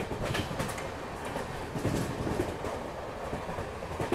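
Gatimaan Express running at speed, heard at an open coach door: a steady rush of noise with irregular clicks and knocks from the wheels on the rails.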